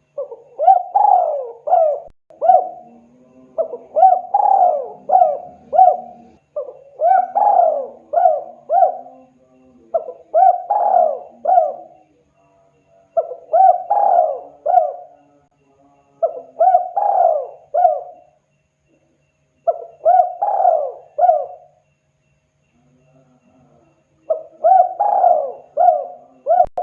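Spotted dove (tekukur) cooing: a phrase of four or five coos, repeated about every three seconds, with a longer pause near the end.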